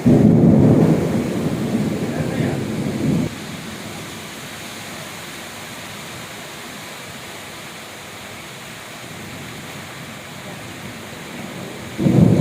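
Heavy rain hissing steadily, with a loud low rumble of thunder at the start that cuts off abruptly after about three seconds. Another rumble begins near the end.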